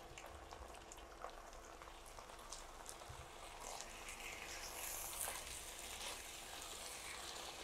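Raw chicken pieces sizzling faintly in hot oil in a frying pan, with a wooden spatula stirring them from about halfway.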